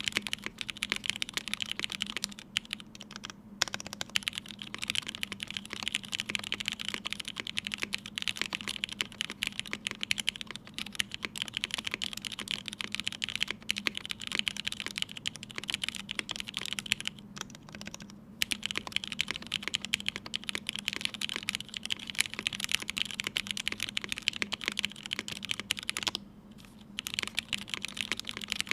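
Continuous fast typing on a Matrix Vita mechanical keyboard with an aluminium plate, Krytox 205g0-lubed and filmed Hyperglide Red linear switches and GMK Pixel ABS Cherry-profile keycaps: a dense run of keystroke clacks with a few brief pauses.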